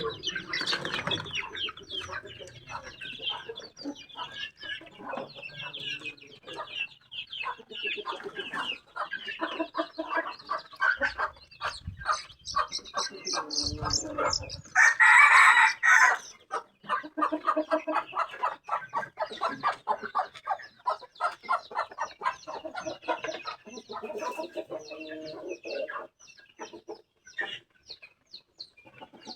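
Bangkok chickens clucking steadily in quick bursts, with one loud rooster crow about halfway through.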